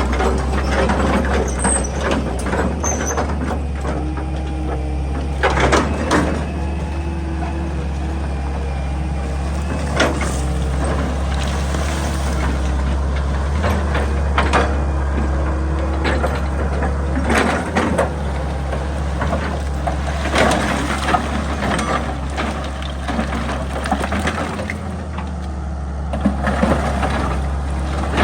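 Excavator's diesel engine running steadily under load, with the scrape and knock of the bucket working into rock and soil every few seconds.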